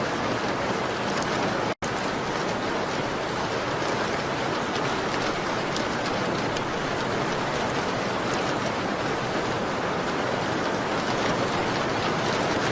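Steady rain on window glass, mixed with faint crackles from a fireplace. The sound cuts out completely for a split second about two seconds in.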